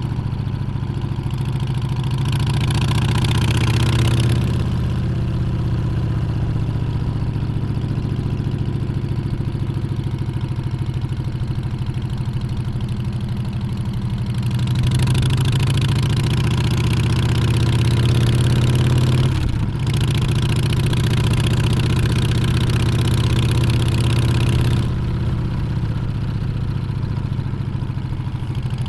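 Harley-Davidson Street Bob's Milwaukee-Eight 114 V-twin running under way. It climbs in pitch as it accelerates about two seconds in and again from about a third of the way through, dips sharply for a moment as at a gear change, then eases off near the end.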